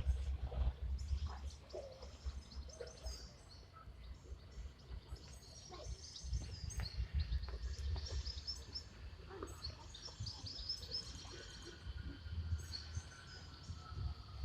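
Small birds chirping in many quick, short, high calls, thickest in the middle of the stretch, over a low rumble that comes and goes.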